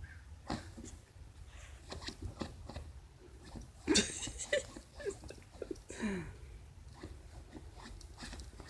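A small dog digging and pawing at a stuffed fabric dog bed: scattered scratching and rustling of cloth and stuffing, with a louder scuffle about four seconds in.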